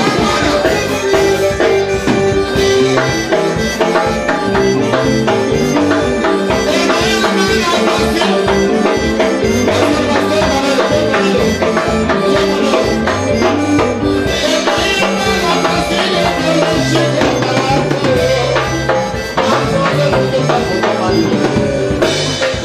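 A live band playing an instrumental passage with a steady beat, bass, percussion with a shaker sound and sustained melody instruments.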